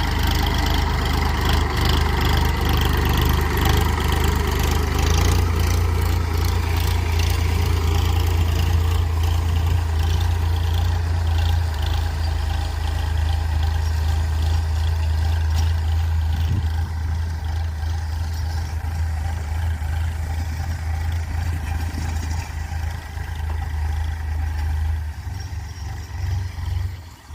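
Farm tractor engine running steadily with a deep low drone while it pulls a furrowing implement; the drone drops away and the sound fades near the end.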